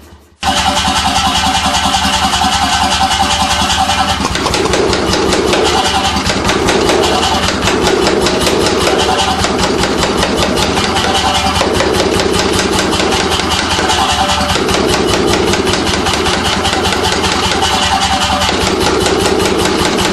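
C41 pneumatic forging hammer (air hammer) running and striking in a fast, even rhythm of blows. The sound starts abruptly just under half a second in, then runs on steadily.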